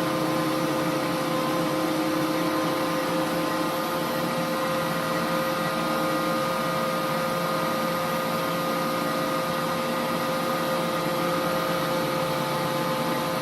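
Holbrook C8 toolroom lathe running steadily, its motor and gearing giving a constant hum made of several fixed tones; one of the lower tones drops away about halfway through.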